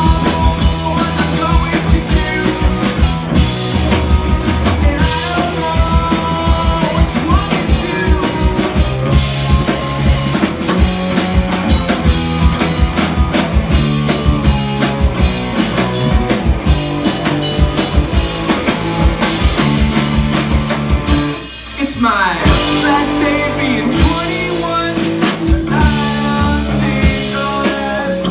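Live rock band playing loud and dense, with a drum kit and electric guitars. About three-quarters through, the music drops out briefly, then comes back in with a rising sweep.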